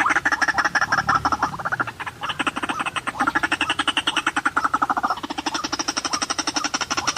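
White-breasted waterhen (ruak-ruak) calling: a loud, rapid croaking chatter of fast repeated pulses that runs on with a brief dip about two seconds in.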